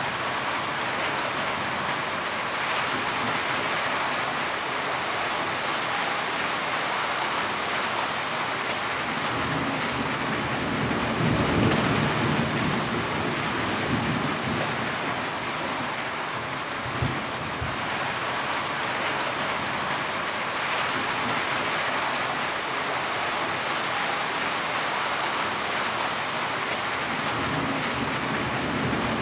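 Heavy rain falling steadily, a dense even hiss of drops on surfaces. A low rumble swells about ten seconds in and again near the end, with a short thump at about seventeen seconds.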